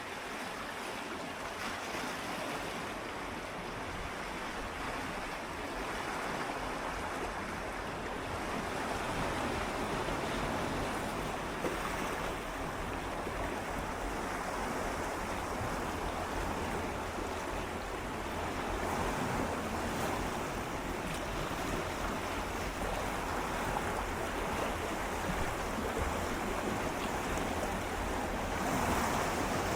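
Gentle sea waves swirling and lapping against shoreline rocks, a steady wash that swells and eases, a little stronger near the end, with some wind on the microphone.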